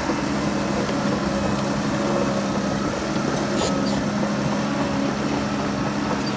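Heavy diesel earthmoving machinery running steadily, with a steady engine hum. Two brief sharp clicks come about halfway through.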